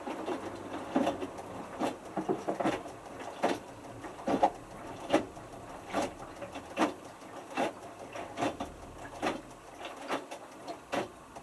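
Hotpoint Futura HF8B593 washing machine drum tumbling a small load of three t-shirts in water, giving irregular knocks and sloshing clunks about once or twice a second. They stop near the end as the drum comes to rest.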